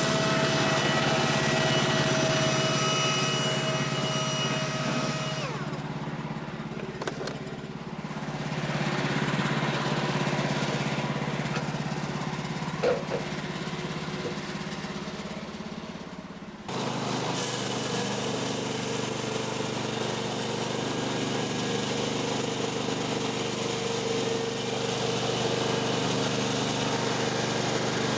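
Small gasoline engine of a Woodland Mills HM126 portable bandsaw sawmill running steadily during milling. Its sound changes abruptly about five and a half seconds in and again near seventeen seconds.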